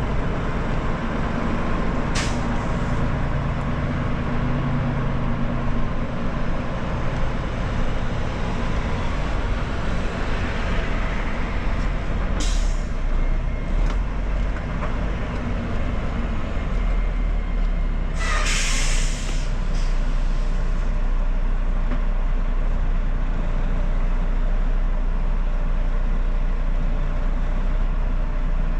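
Semi truck's diesel engine running steadily, with three hisses of air from the air brake system: two short ones and a longer, louder release about two-thirds of the way through.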